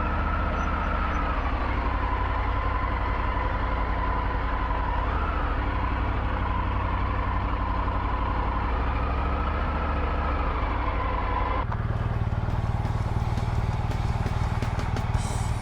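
Triumph Tiger 900 GT's three-cylinder engine running steadily on the move, with a wavering whine over it. About twelve seconds in, the sound changes abruptly to a different steady engine note.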